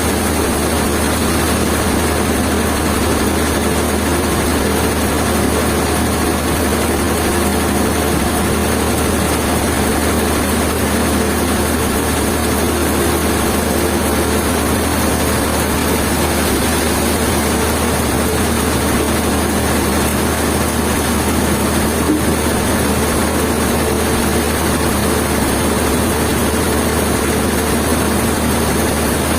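Engine running steadily at an even speed, with a constant low hum.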